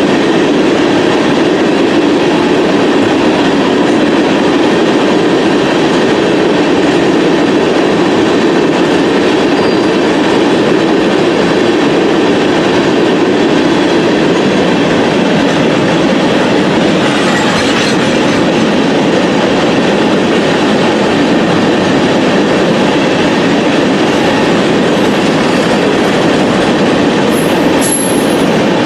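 Freight train of tank cars rolling past close by: a steady rumble of steel wheels on the rails, with a few brief high wheel squeals near the end.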